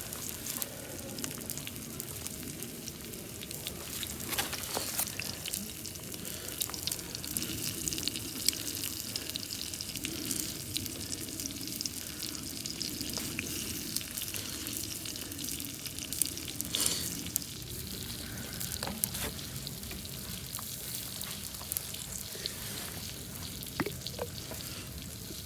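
Food frying in hot oil in a pan: a steady sizzle with small crackles and pops throughout.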